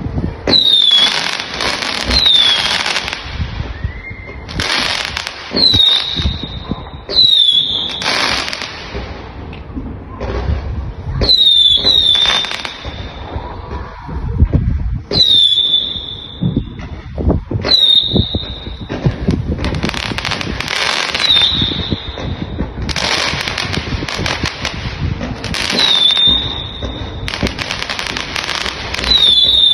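Fireworks display: repeated loud bursts and crackling, with short high whistles that drop in pitch and then hold, again and again.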